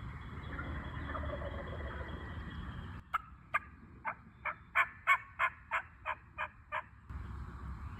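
Wild turkey yelping: a run of about eleven short, loud calls at roughly three a second, building then fading, starting about three seconds in.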